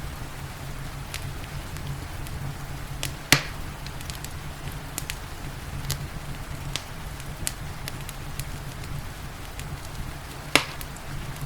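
Wood fire crackling with scattered small snaps and two loud sharp pops, one about a third of the way in and one near the end, over a steady low rumble and the even hiss of rain.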